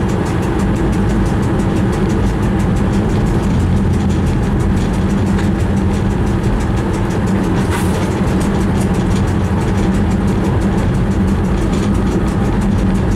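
Train running along the track, heard from inside the driver's cab: a steady low hum from the traction equipment over the rumble of wheels on rail, with one short high click a little past halfway.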